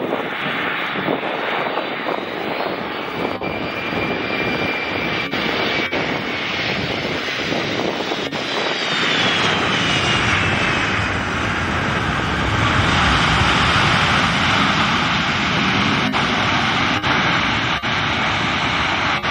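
Four turbofan engines of a C-17 Globemaster III transport running on the ground, a loud steady jet roar with a high whine. The whine falls in pitch about eight to eleven seconds in, and the engine noise swells louder about nine seconds in.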